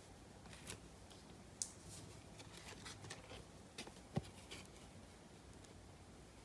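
Faint handling of trading cards and their packaging: scattered light rustles and clicks, with a sharper click about a second and a half in and a soft knock about four seconds in.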